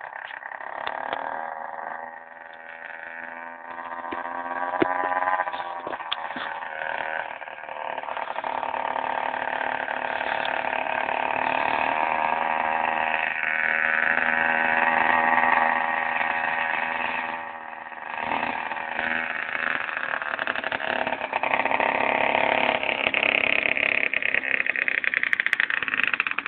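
Small kick-start motorcycle engine running, its pitch rising and falling as the throttle is worked. It sags briefly about two-thirds of the way through, then picks up again.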